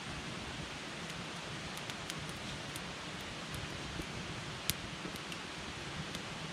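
Wood campfire burning with a steady hiss and scattered small crackles and pops, one sharper pop a little past the middle.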